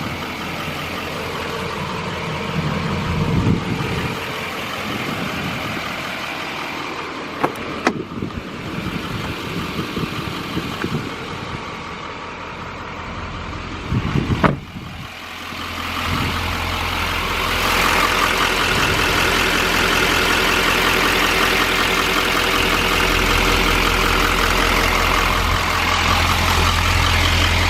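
2015 GMC Sierra 3500HD pickup's engine idling, with a few sharp knocks in the first half; about halfway through the engine sound becomes louder and steady, a constant low hum.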